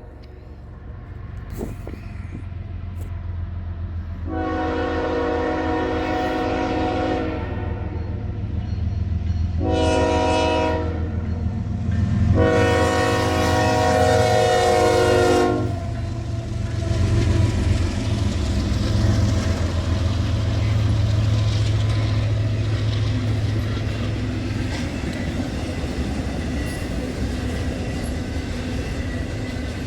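Diesel freight locomotive sounding its multi-tone air horn in three blasts, long, short, long, as it approaches a grade crossing over a low engine rumble. The locomotive then passes and the train's cars roll by with a steady rumble and clickety-clack of wheels on rail joints.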